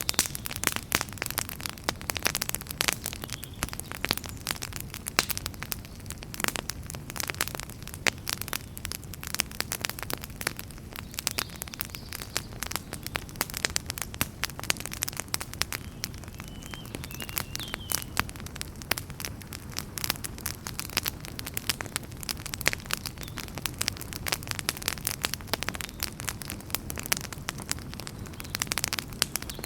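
Wood fire in a fireplace crackling: many irregular pops and snaps over a steady low rumble of the flames.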